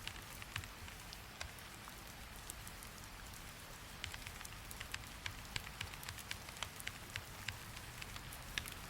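Steady rain hiss with irregular sharp clicks of keyboard typing, several a second, coming thicker from about halfway in.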